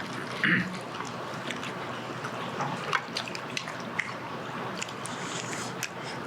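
Eating at the table: wet chewing and mouth sounds with scattered light clicks and taps, the loudest about half a second in, over a steady background murmur.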